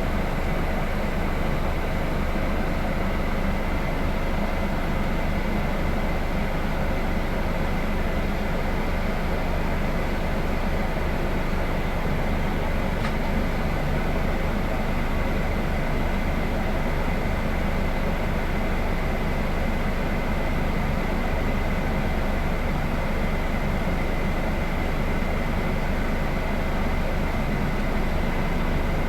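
Scania K320 IB coach driving at a steady pace: even diesel engine drone and rolling noise, with a faint steady high whine throughout.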